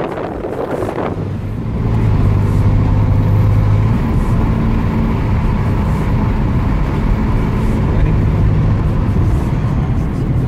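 1994 Chevrolet Camaro's engine and exhaust heard from inside the cabin while driving, a steady low drone that grows louder about two seconds in as the car pulls.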